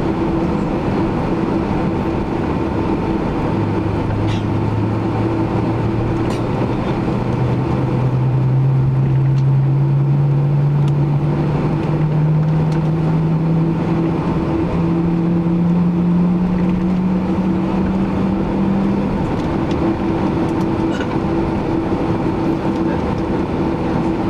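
Steady cabin hum inside a Boeing 767-300ER. A low whine comes in a few seconds in, rises slowly in pitch for about fifteen seconds, then stops.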